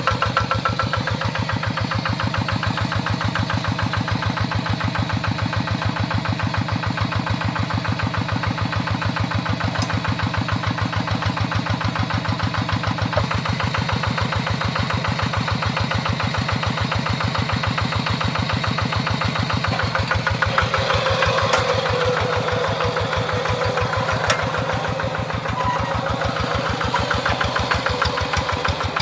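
Tractor engine running steadily with a fast, even firing beat. About two-thirds of the way through, a harsher clatter with a few sharp clicks joins in.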